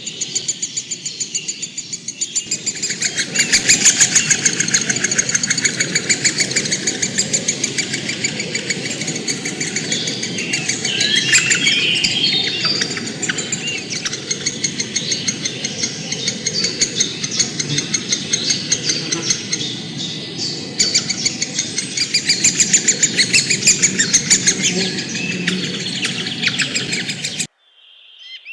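A dense chorus of birds chirping, with rapid, repeated notes over a low rumble, cutting off abruptly near the end.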